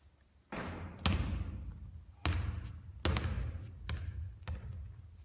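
Basketball hitting the hard court and hoop about six times at uneven intervals, each impact sharp and followed by a short echo.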